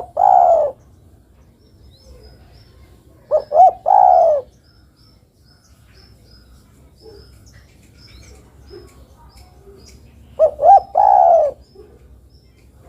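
Female spotted dove (derkuku) cooing in three phrases several seconds apart, each two short notes followed by a longer coo. Faint high chirps come between the phrases.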